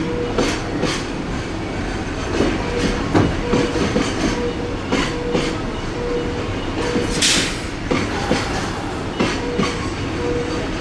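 JR West electric train running through a station, its wheels clicking over the rail joints again and again, with a faint on-and-off tone and a brief hiss about seven seconds in.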